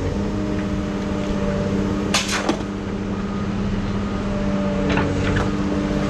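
A steady mechanical hum from a running engine or motor, with a few sharp knocks about two seconds in and again about five seconds in.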